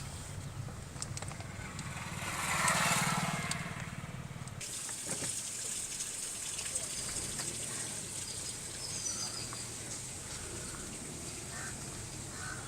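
Steady rush of flowing floodwater, with an engine running under it for the first four and a half seconds and a swell of louder noise about two to four seconds in.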